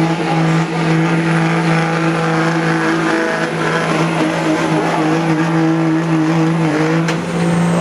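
Modified Dodge pickup truck's engine running hard at steady high revs as it pulls the sled, its pitch held nearly constant with a slight waver near the end.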